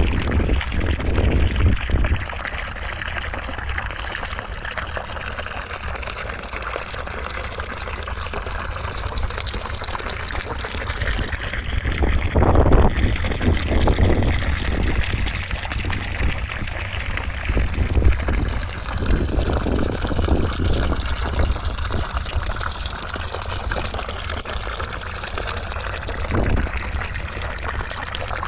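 Continuous white noise: a steady, even rushing hiss across all pitches, with slow sweeping shifts in tone and a low rumble underneath.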